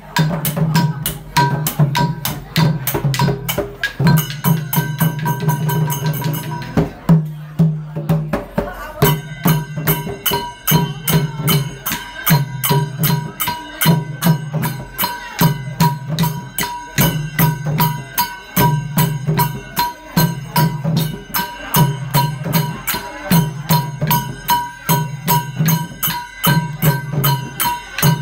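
Khmer chhay-yam folk music: drums and clashing small cymbals beating a fast, steady rhythm over a low repeating pulse, with a brief break about seven seconds in.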